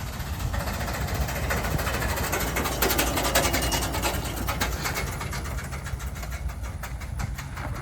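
An engine running, with a rapid, even pulse of firing strokes, swelling louder about three seconds in and easing back after.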